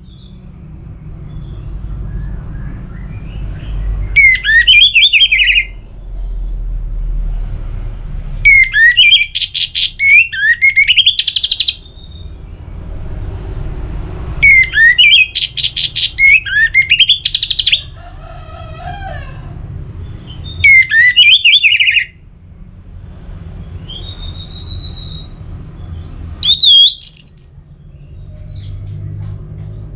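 Orange-headed thrush singing in about five loud bursts of fast, varied whistled phrases, each lasting one to three seconds with short pauses between them. A steady low hum runs underneath.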